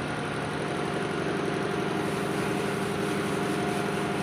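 Mercedes-Benz Actros truck's diesel engine idling steadily.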